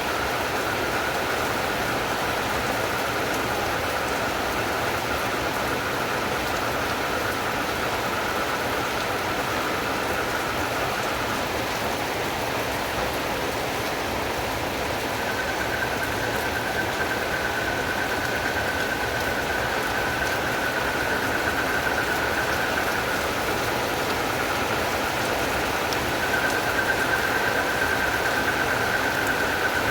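Steady rain falling, with a continuous high, even chorus of calling frogs and crickets over it. The chorus drops out about a third of the way in and comes back slightly higher a few seconds later.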